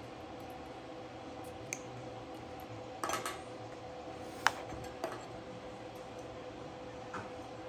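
A few light metallic clinks and taps, the loudest about halfway through, as pieces of metal or tools are handled, over a steady electrical hum.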